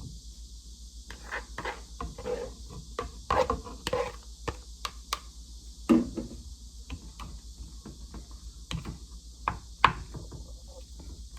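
Kitchen handling noises: a run of irregular clicks, knocks and clinks from utensils and dishes being worked, over a steady high-pitched hiss.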